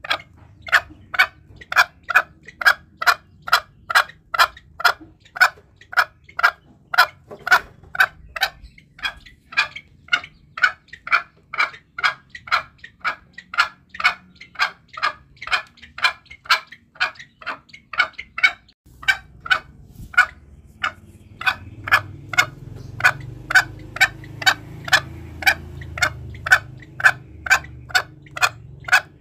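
Green junglefowl calling in a fast, even series of short clucks, about two to three a second, played as a hunting lure call. There is a brief pause about 19 seconds in, after which a low background rumble joins the calls.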